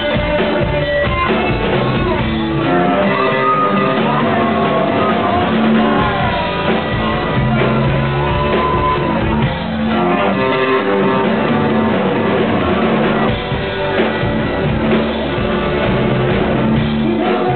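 Live rock band playing: guitars and bass under a singer's voice, singing and shouting.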